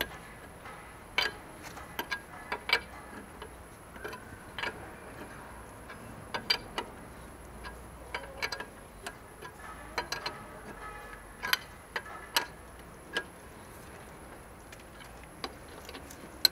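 Irregular sharp metallic clicks and taps of hand tools and wheel bolts as a car's front wheel is refitted.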